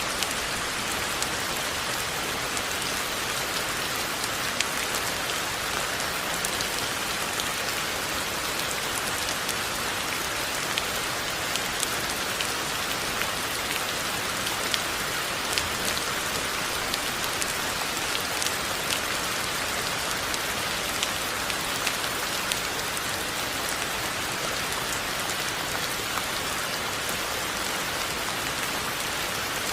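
Steady rainfall: a dense, even hiss of rain with many scattered louder individual drop ticks.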